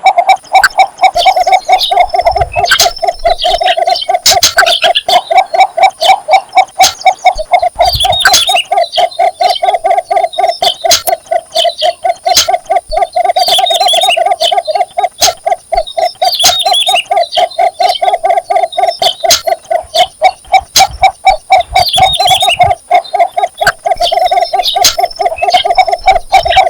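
Cinnamon bittern giving its mating call: a long, unbroken series of low notes repeated rapidly and evenly, about three to four a second. Higher chirping calls are scattered over it.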